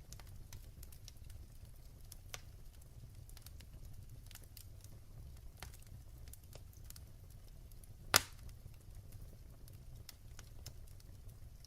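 Wood fire burning in a fireplace: a low steady rumble with scattered sharp crackles, and one much louder pop about eight seconds in.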